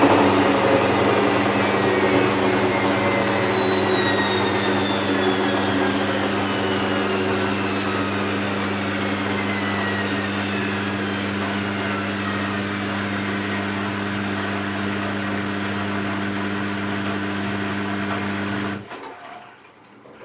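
Hoover VisionTech washer-dryer running loudly at the end of its drying cycle: a steady hum under a high whine that slowly falls in pitch. It cuts off suddenly near the end as the program finishes.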